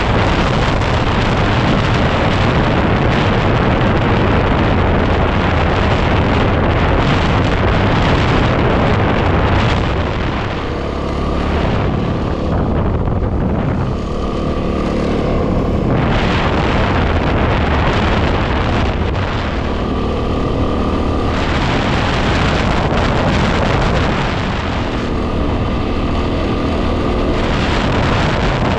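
Heavy wind noise on the microphone over a 2010 Yamaha WR250R's single-cylinder engine running steadily while riding. In a few lulls, around the middle and near the end, the wind eases and the engine's note comes through more clearly.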